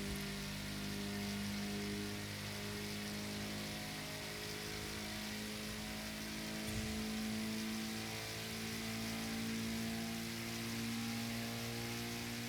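Car engine running at a steady speed, a constant pitched drone with a slight step up in pitch about eight seconds in.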